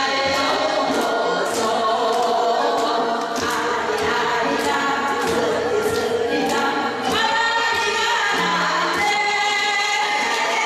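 Singing with musical accompaniment and a steady percussion beat of about two strokes a second.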